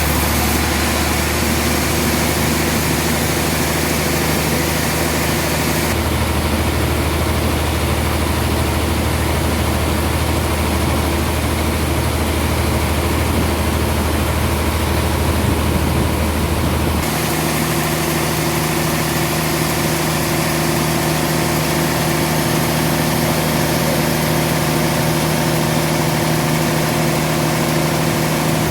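Sawmill machinery running steadily with a low, engine-like hum. The sound changes abruptly about 6 seconds in and again about 17 seconds in.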